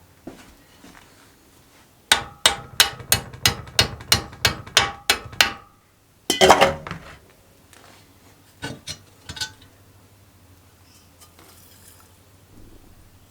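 A hammer strikes metal in a quick run of about a dozen blows, roughly three a second, each with a short metallic ring. Then comes a single louder clattering knock, followed by a few lighter taps.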